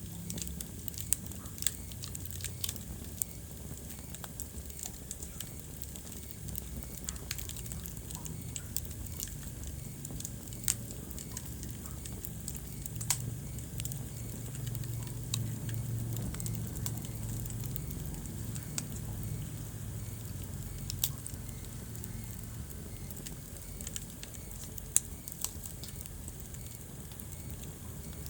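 Wood fire burning in a fireplace: a steady low rumble of the flames with irregular crackling and a few louder pops from the burning logs.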